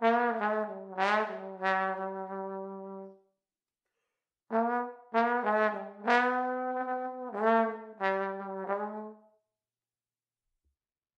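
A solo trombone plays two short phrases of a tune, each a run of separate notes ending on a held note. The notes stop about nine seconds in.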